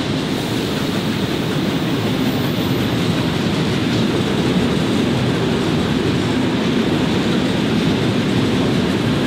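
Two vintage passenger trains running side by side on parallel tracks, heard from an open carriage window: a steady rumble of wheels on rail that does not let up.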